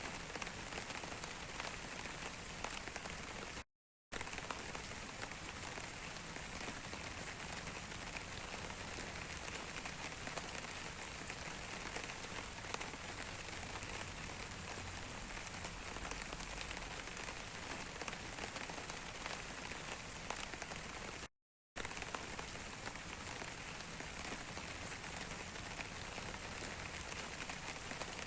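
Steady rain falling on a surface, a constant hiss with many small drop ticks. It cuts to dead silence for under half a second twice, about four seconds in and about twenty-one seconds in.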